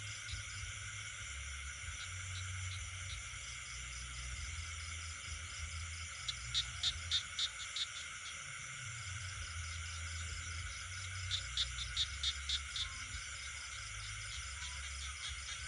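Night chorus of frogs and insects: a steady high trilling throughout, broken twice by a run of about six sharp, evenly repeated calls that stand out as the loudest sounds.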